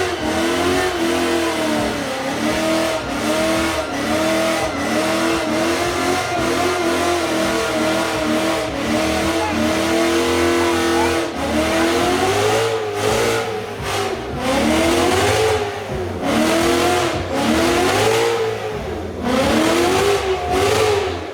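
A Ford Mustang's engine revved hard over and over during a burnout, its pitch rising and falling about twice a second at first, then in longer, slower sweeps.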